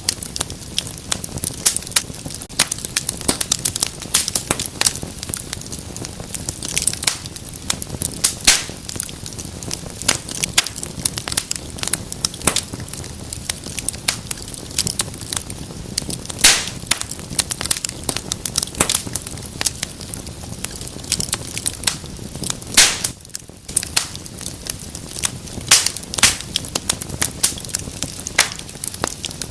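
Wood fire burning in a fireplace: a steady crackling of many small irregular snaps over a soft hiss, with a few louder pops.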